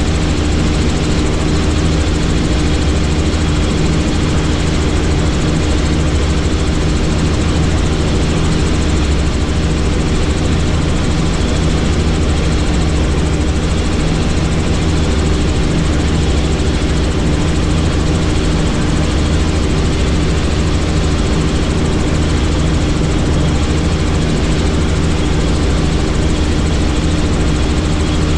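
Helicopter in steady flight: a constant, even drone of the turbine and rotors with a steady low hum, unchanging throughout.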